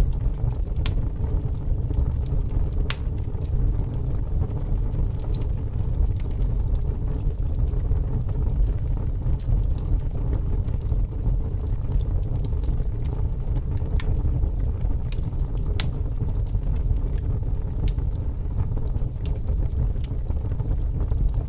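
Fire burning, with a steady low rumble and scattered sharp crackles and pops at irregular intervals.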